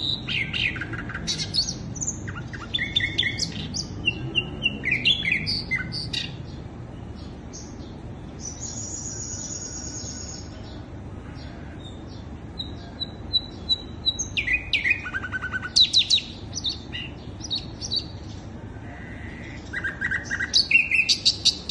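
Sikatan londo singing: a varied string of sharp chirps, rapid trills and high thin whistles in clusters, with a sparser stretch in the middle.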